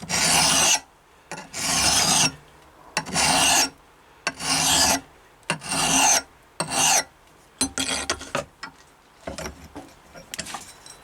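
Hand file scraping across the steel edge of a hatchet head in long strokes about a second apart, then a few shorter, lighter strokes near the end: coarse filing to shape the edge bevel evenly and take out dings, before a finer file is used.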